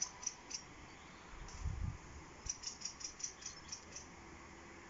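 A bird calling in quick runs of short, high notes, about six a second, twice, with a brief low rumble between the runs.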